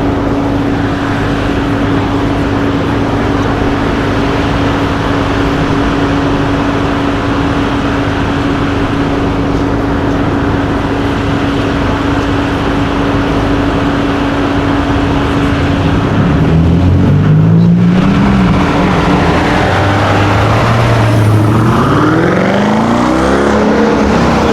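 A sports car's engine running steadily, with a constant hum. About two-thirds of the way through it begins revving, and its pitch rises and falls several times, climbing highest near the end.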